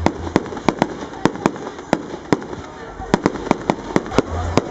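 Fireworks display: a rapid, irregular run of sharp cracks and bangs, about four a second, over a low rumble of booming shells.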